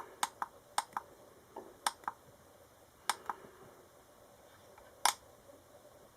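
Irregular sharp clicks of a handheld ESR meter and its test clips being handled while it is hooked up to a tumble dryer capacitor. There is a quick run of clicks in the first two seconds, a pair about three seconds in, and one more near five seconds.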